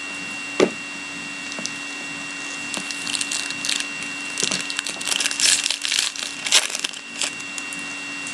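A hockey card pack's wrapper being torn open and crinkled by hand, in bursts of crackly rustling through the middle and latter part, after a single sharp click. A steady electrical hum runs underneath.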